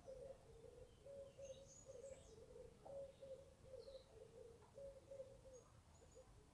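Near silence, with faint bird calls in the background: a run of short repeated low notes and a few high chirps.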